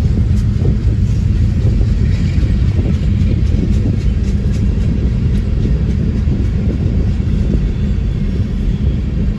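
Empty Union Pacific rock train led by GE diesel-electric locomotives running past, a loud steady low rumble.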